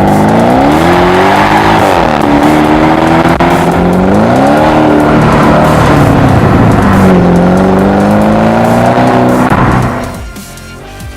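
Porsche Cayenne engine through a tuned exhaust, revved up and let back down three times, the pitch rising and falling each time. The engine sound cuts off about ten seconds in.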